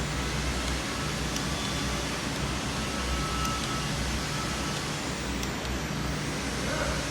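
Steady background noise: a low hum under an even hiss, with a few faint clicks.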